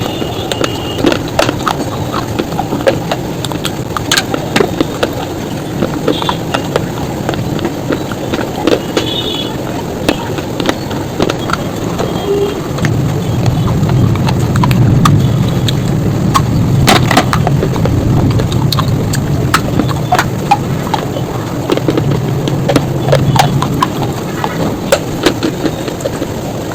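Bars being crunched: continuous crisp crunching and crackling with sharp snaps scattered throughout, heavier and louder for a few seconds around the middle.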